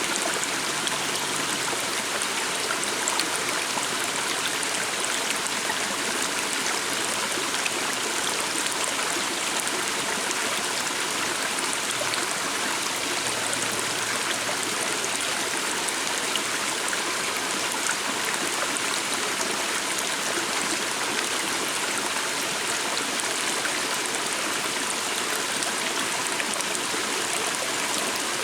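Water of a small stream running over stones, a steady even rush with fine splashing and gurgling.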